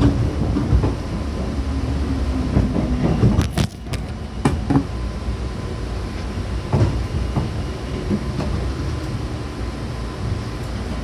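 JR West 105 series electric train running, heard from inside the car: a steady low rumble with scattered clicks and knocks from the wheels and car body. The running noise drops a little about four seconds in.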